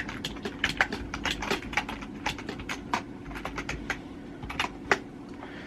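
Keyboard typing: a quick, irregular run of key clicks that thins out towards the end, over a steady low hum.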